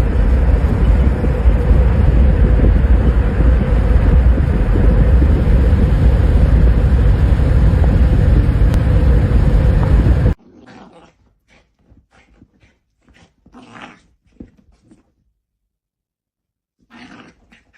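A dog growling in one long, loud, unbroken stretch for about ten seconds, which stops abruptly. It is followed by a few short, faint sounds.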